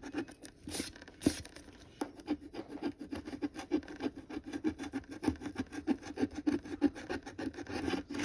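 Scratch-off lottery ticket being scratched, a quick run of short scraping strokes at about four a second.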